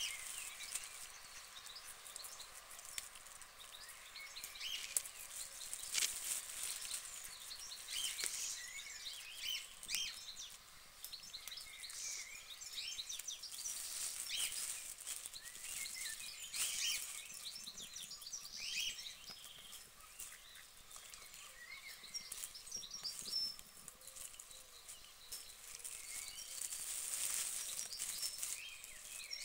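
Small birds chirping and twittering over a steady high hiss, with a few sharp clicks.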